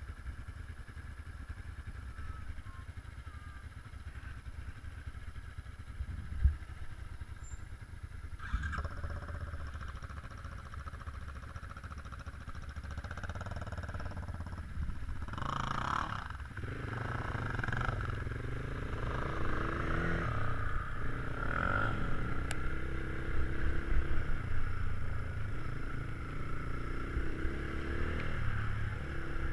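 Geon Scrambler 250 motorcycle running on the move, its engine note rising and falling as the revs change and getting louder through the second half. A single sharp knock about six seconds in.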